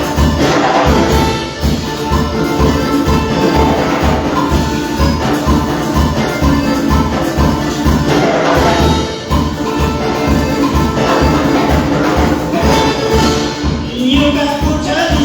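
Instrumental worship-band music, mostly without singing, over a steady, quick low beat with held melodic tones.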